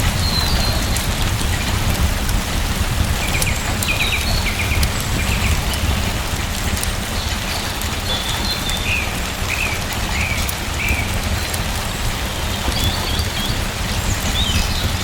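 Steady rain falling, with small birds chirping now and then.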